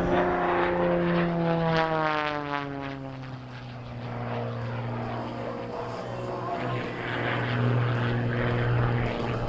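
Single-engine aerobatic propeller plane, an MXS-RH, with its engine and propeller drone falling sharply in pitch about two seconds in as it passes and changes power. It then settles into a steady lower drone that swells again near the end.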